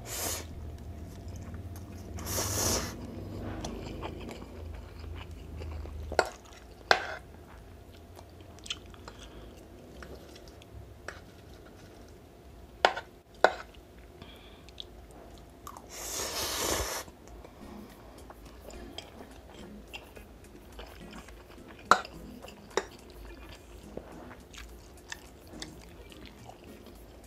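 Chewing and slurping of instant fried noodles (pancit canton), with a few sharp clicks now and then and two longer noisy swishes, one about two seconds in and one around the middle.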